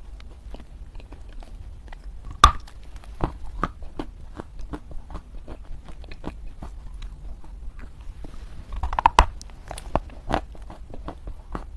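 Lumps of dry loess clay crunching and crumbling in a quick run of small cracks, with a louder crack about two and a half seconds in and a cluster of loud cracks near nine seconds.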